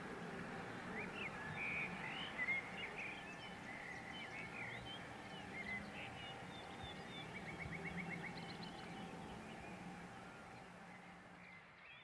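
Birds chirping over steady outdoor background noise, with short scattered calls and one quick trill; the ambience grows fainter near the end.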